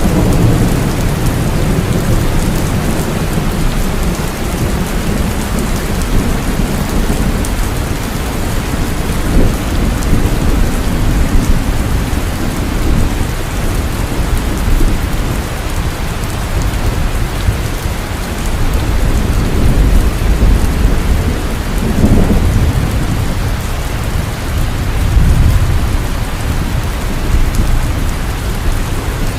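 Heavy rain falling steadily, a dense continuous hiss of drops on surfaces, with deep rolling thunder rumbling underneath and swelling now and then, most clearly about three-quarters of the way through.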